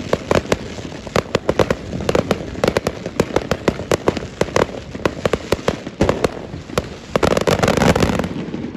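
Fireworks going off in a rapid run of sharp bangs and crackles, several a second. About seven seconds in they build to a dense, near-continuous volley, which cuts off near the end.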